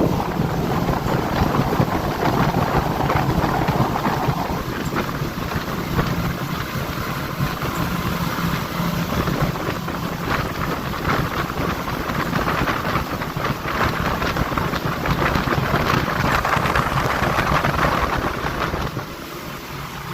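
A boat's engine running steadily under way, with wind on the microphone and rushing water noise over it; the sound eases off a little near the end.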